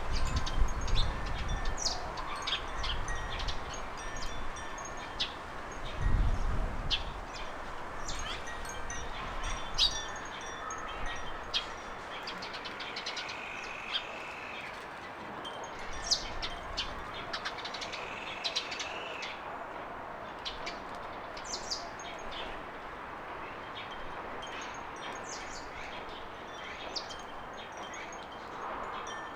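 Garden birds chirping: many short high chirps scattered throughout, with two longer held notes in the middle, over a low rumble that fades after the first few seconds.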